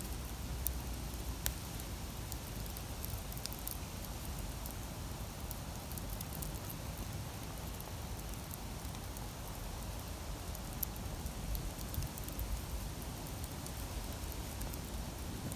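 Wood campfire crackling: scattered sharp pops over a steady low rumble.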